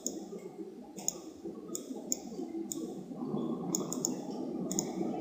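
Computer mouse clicking, single clicks and quick double clicks, irregularly about every half second to second, over faint low background noise.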